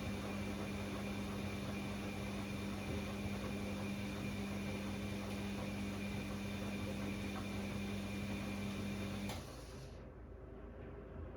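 Bosch Classixx 6 washing machine's drum motor turning the drum in the heated main wash of a 90 °C cottons cycle, a steady hum with a high whine, stopping abruptly about nine seconds in as the drum pauses between tumbles.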